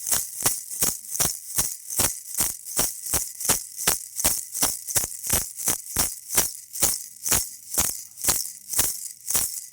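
Baby toy rattle shaken in a steady rhythm, about three shakes a second, each shake a bright rustle of beads.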